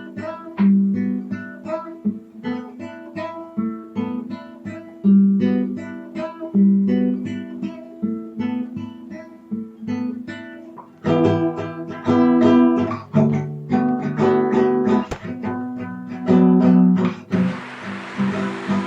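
Acoustic guitar music: picked single notes and chords, growing fuller and louder about eleven seconds in.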